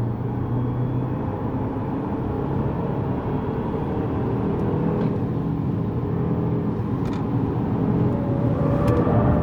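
Lexus GS200t's 2.0-litre turbocharged four-cylinder engine pulling under hard acceleration down the fast straight, heard from inside the cabin over tyre and road noise, growing gradually louder.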